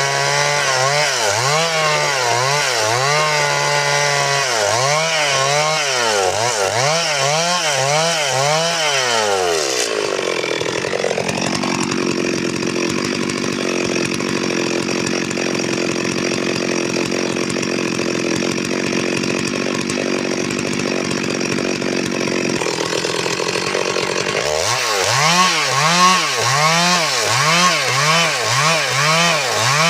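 Stihl MS 382 two-stroke chainsaw revving up and down in quick repeated surges. About ten seconds in it settles into a steady note held for roughly a dozen seconds, then goes back to the repeated surges near the end.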